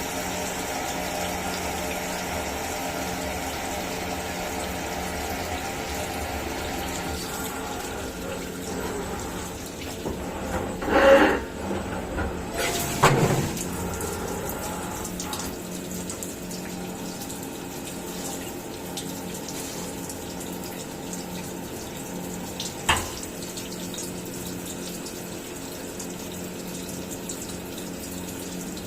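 CNC milling machine running with a steady hum and a rushing hiss. Louder bursts come about 11 and 13 seconds in, and a single sharp knock near 23 seconds.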